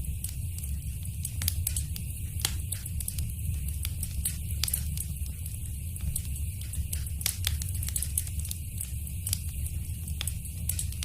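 Fireplace fire crackling, with frequent sharp pops and snaps scattered irregularly over a steady low rumble.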